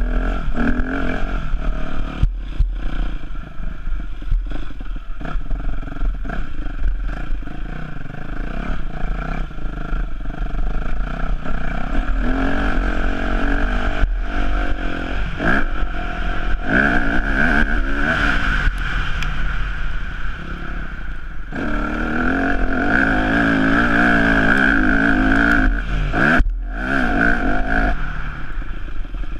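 Yamaha YZ250F four-stroke single-cylinder motocross engine revving up and falling back repeatedly, held high for several seconds near the end. Short knocks and rattles run throughout.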